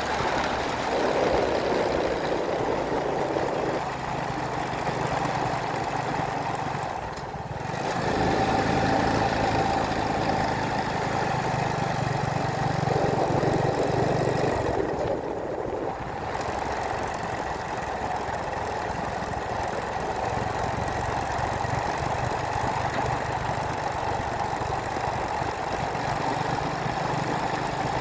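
A motor vehicle's engine running steadily, with a brief drop in the higher sound about a third of the way in and again about halfway.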